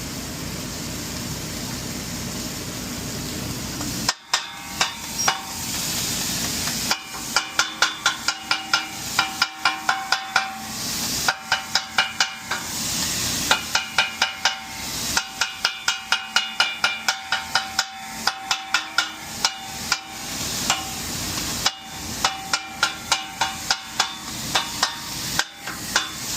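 Metal spatulas chopping cheesesteak meat on a steel flat-top griddle: rapid ringing metallic clanks, about three to four a second, in runs with short pauses, over a steady hiss of sizzling. The first four seconds hold only the hiss.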